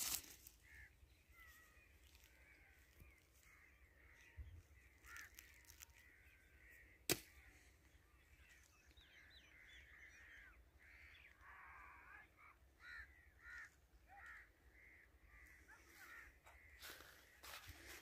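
Faint bird calls, many short calls scattered throughout, with a single sharp click about seven seconds in.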